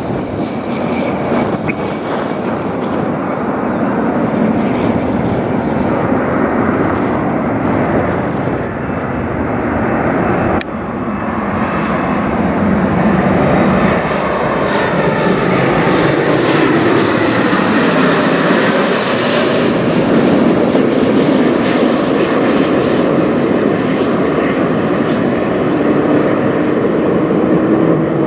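Boeing 737 MAX 8 jetliner with CFM LEAP-1B turbofans flying low overhead. Its jet noise builds to a peak with a rising hiss about two-thirds of the way through, then starts to ease.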